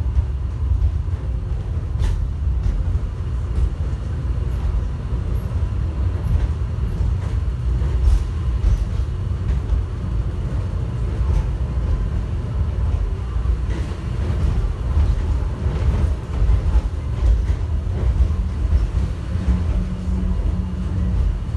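Airport people-mover train running, heard from inside the car: a steady low rumble with occasional light knocks. A steady hum comes in near the end.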